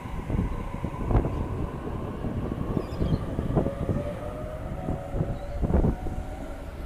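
Sydney Trains Waratah electric train pulling away from the platform: wheels clunking irregularly over the rails, with a faint steady electric whine.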